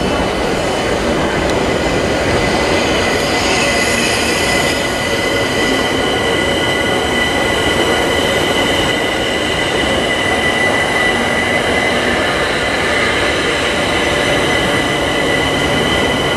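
London Overground Class 378 electric train running slowly along a platform: a steady rumble with a continuous high wheel squeal.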